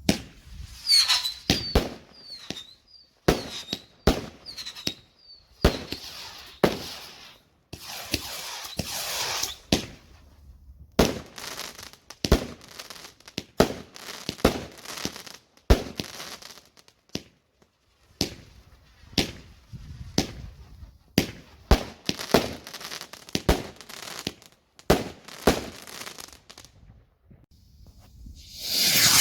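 Fireworks going off: a fast, uneven string of sharp bangs and cracks, with short repeated whistles in the first few seconds, a rushing hiss about eight seconds in and another loud hiss at the end.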